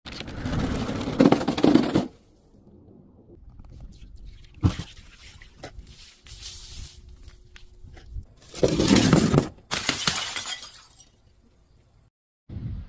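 Glass bottles shattering and crunching in loud bursts: one lasting about two seconds at the start and another about eight and a half seconds in, with a single sharp crack and quieter crackling in between.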